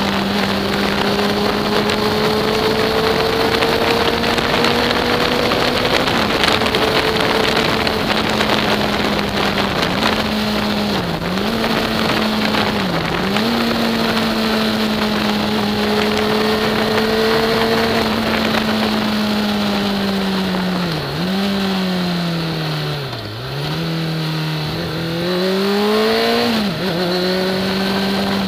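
Sport motorcycle engine running at a steady cruise under heavy wind rush. The revs dip briefly a few times, then fall for a few seconds about three quarters of the way in before rising again.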